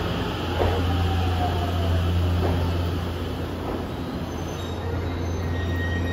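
An E257 series electric train rolling slowly into a station, its wheels clacking over rail joints a few times against a steady low hum, with a brief falling whine a second or two in.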